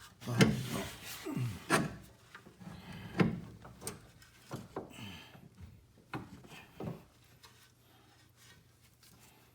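Irregular knocks and scrapes of parts and tools being handled while a front drive axle is worked into place, about seven sharp knocks, loudest in the first few seconds and quieter toward the end.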